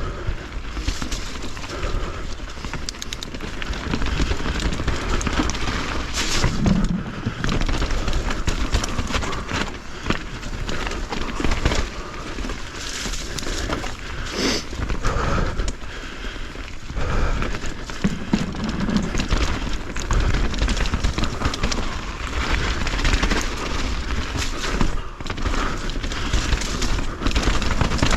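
Mountain bike riding rough, wet trail: a steady rush of tyre and wind noise on a helmet or chest camera's microphone, broken by frequent sharp knocks and rattles of the bike over roots and trail features.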